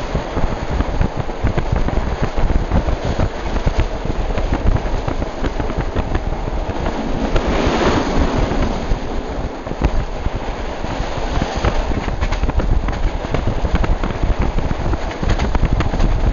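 Passenger train running, heard from on board: a steady low rumble with dense crackling and rattling, and a rush of noise that swells and fades about halfway through.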